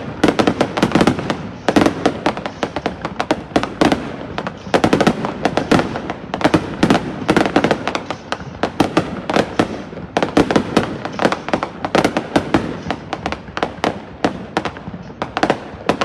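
Fireworks going off all around, a dense, continuous barrage of bangs and crackling with no let-up.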